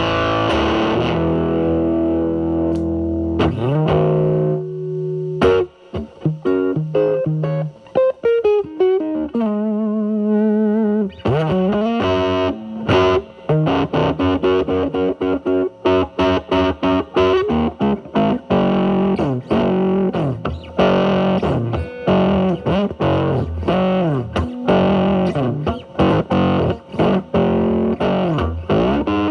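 Electric guitar (Telecaster) through a Mosrite Fuzzrite clone fuzz pedal with a 2N2369 silicon transistor, into a Marshall Valvestate's drive channel, playing blues-style lead lines. It starts with held fuzzed notes and has a bent note with vibrato near the middle, then runs of quick picked notes. About five seconds in, the fuzz is cleaned up, most likely by rolling back the guitar's volume.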